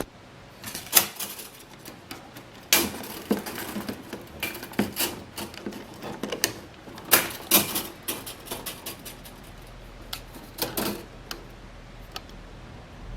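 Irregular series of sharp clicks and knocks, like hard objects being handled, with a faint low hum coming in about two-thirds of the way through.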